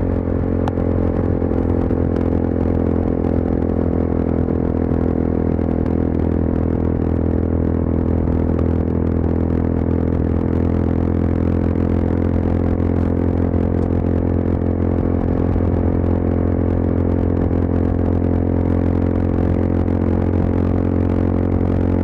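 Yezdi Adventure motorcycle's single-cylinder engine and exhaust running at a steady highway cruise, holding one even note with no gear change or throttle blip.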